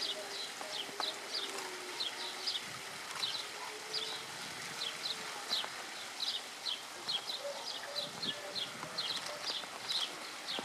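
Small birds chirping: short, high chirps repeating in uneven runs at about two or three a second.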